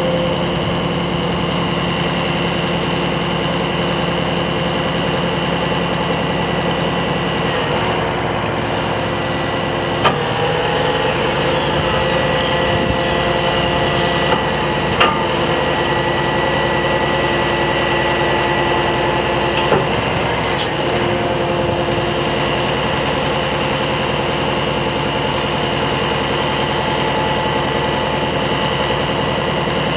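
Scania R480 truck's diesel engine running steadily. Its tone shifts a few times, and a handful of short clicks or knocks come through, around a third of the way and near the middle.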